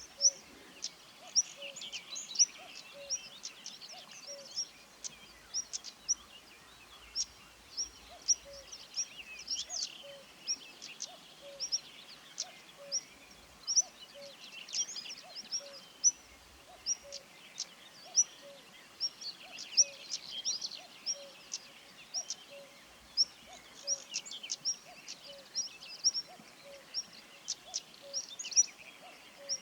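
Common reed bunting singing short repeated phrases, with a European stonechat's sharp ticking calls mixed in and a common cuckoo calling its steady, faint, low two-note call in the background.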